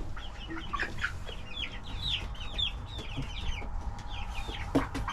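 A flock of young chickens, nearly seven weeks old, peeping in quick, short, high calls that crowd together through most of the stretch and thin out near the end, where a couple of sharp knocks sound.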